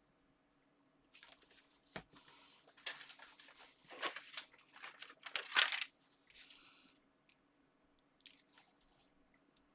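Crinkling and crackling of plastic craft packaging being handled for several seconds, with a sharp click about two seconds in. The loudest crinkle comes a little past the middle.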